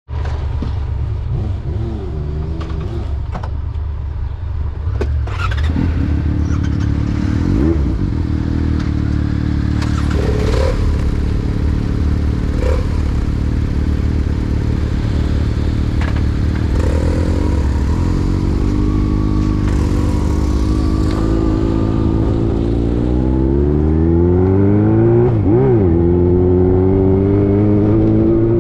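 Motorcycle engine running while riding, its pitch rising and falling with the throttle, then climbing steadily near the end as it accelerates.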